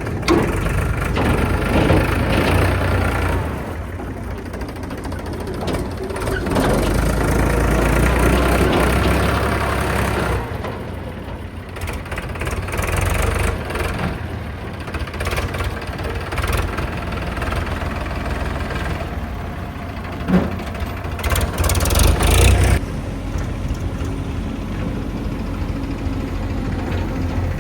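Heavy diesel machinery engine running, swelling under load for a few seconds at a time and easing back toward idle, several times over. A short burst of clattering comes about three quarters of the way through.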